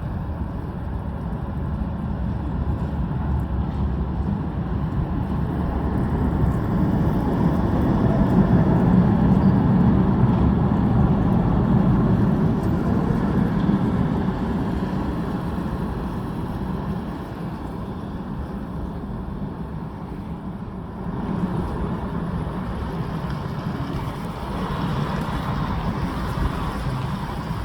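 Düwag Pt8 articulated tram running, its low rumble swelling to a peak about ten seconds in and then easing off.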